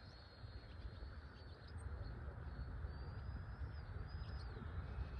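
Distant high whine of a Freewing Zeus 90mm electric ducted-fan jet in flight, its pitch wavering and sliding down a little near the end, over a steady low rumble of wind on the microphone.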